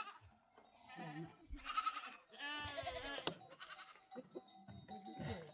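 Goats bleating: two wavering calls, about two and three seconds in, with a sharp click just after the second.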